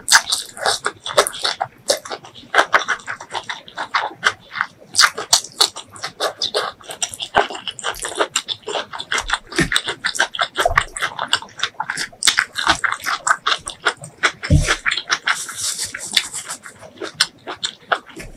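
Close-miked chewing of spicy beef tripe curry, rice and greens: a dense, fast run of wet smacks, clicks and crunches. There is a dull low thump about fourteen seconds in.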